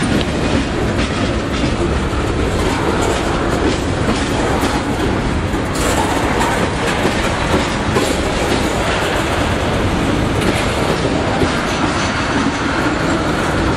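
Train cars rolling by, their wheels clacking over the rail joints in a loud, steady rush of noise.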